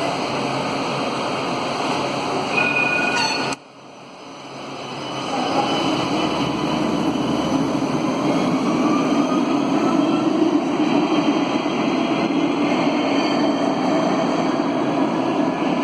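Nice T2 tram running through the station: a steady rail rumble that cuts out abruptly about three and a half seconds in, then builds back up over a couple of seconds and holds, with a faint electric motor whine.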